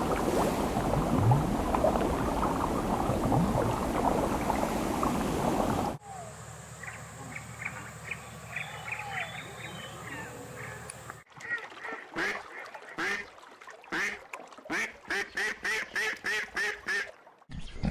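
Ducks quacking in spliced recordings: first a loud, dense din of many fowl calling at once, then a quieter stretch of short high calls, and from about eleven seconds in a single run of quacks that quickens to three or four a second before cutting off near the end.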